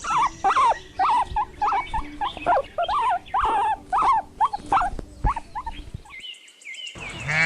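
Guinea pig squeaking: a rapid run of short, wavering squeaks, several a second, stopping about six seconds in.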